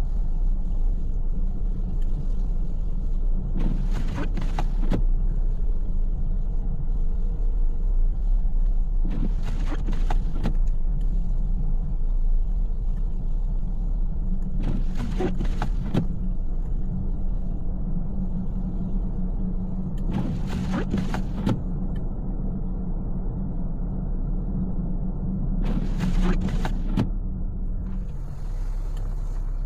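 Car interior on the move in snow: a steady low road and engine rumble, with the windshield wipers making a brief sweep about every five and a half seconds on an intermittent setting.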